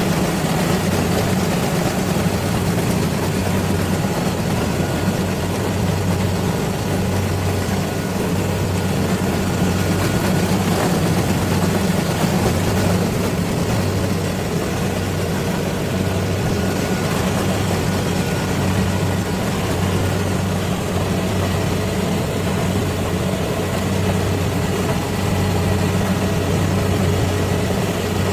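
Rice combine harvester's engine running steadily with a low, even hum and machinery noise.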